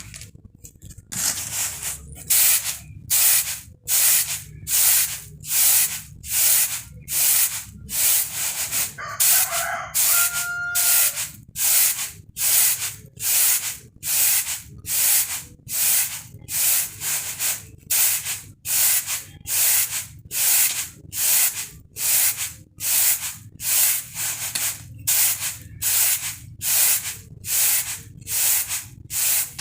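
Rice being winnowed on a woven bamboo tray (tampah): grains swish and rustle against the tray in a steady rhythm of about one and a half tosses a second.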